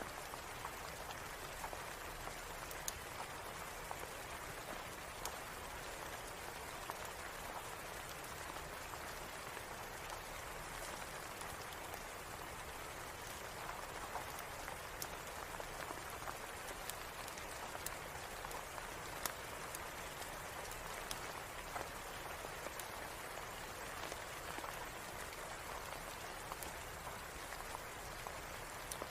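Steady rain falling, an even hiss, with scattered sharp pops and clicks at irregular moments: the crackling of a wood fire in a fireplace.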